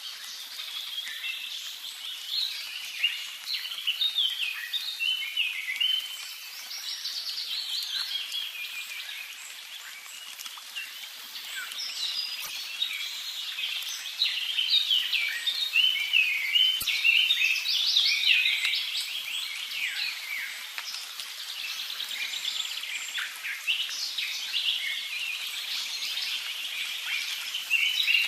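Outdoor chorus of many small birds chirping and singing at once: a dense, continuous stream of short high calls.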